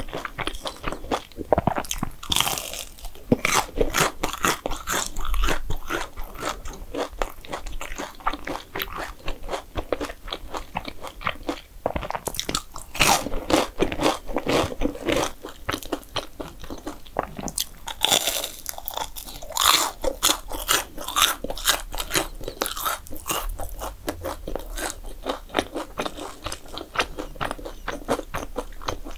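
A person biting and chewing crunchy food close to the microphone, with a steady run of crisp crunches and louder bouts of crunching now and then.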